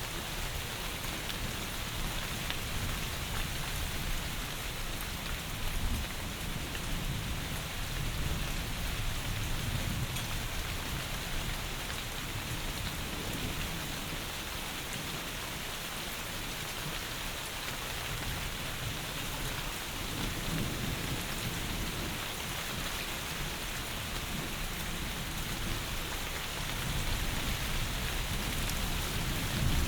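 Heavy rain pouring steadily, with low rumbles of thunder that swell near the end.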